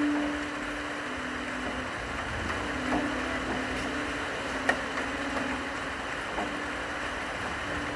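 Steady rain hiss with slow, long-held low cello notes sounding through it. A few sharp drip-like taps stand out, the loudest about halfway through.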